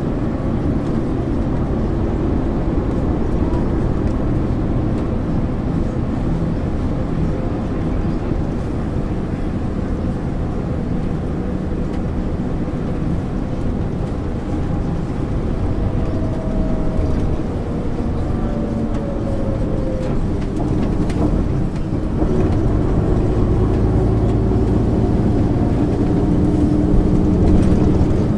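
A 1999 MAN ÜL 353 bus under way: steady diesel engine and drivetrain noise with a whine that rises and falls about two-thirds through. Near the end the engine gets louder and deeper as it pulls harder.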